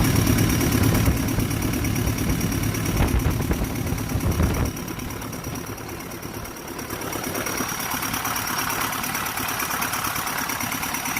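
Kobelco SK200-8 excavator's Hino J05E four-cylinder turbo-diesel idling steadily on its test run after a top overhaul. It grows quieter about four and a half seconds in, then picks up again a couple of seconds later.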